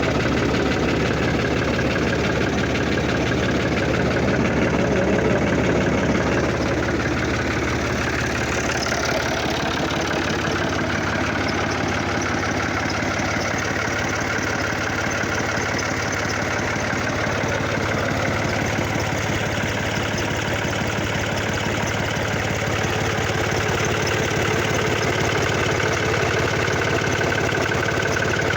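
Fiat 480 tractor's diesel engine idling steadily.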